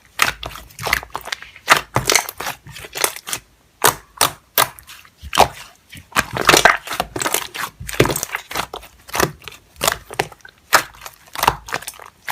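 Slime being squeezed and pressed by hand, giving irregular sticky crackling pops and clicks, several a second.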